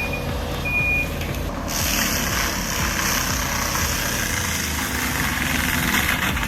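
Tracked skid steer running, its reversing alarm beeping twice in the first second over a steady engine hum. From about two seconds in, a loud steady rushing noise joins the engine.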